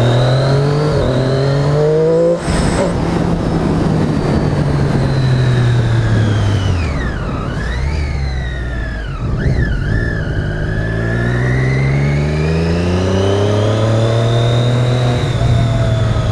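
Motorcycle engine pulling hard with its pitch rising, a brief break at a gear change about two seconds in, then easing off with its pitch falling, and accelerating again from about ten seconds in, with wind and road noise rushing over the rider-mounted camera.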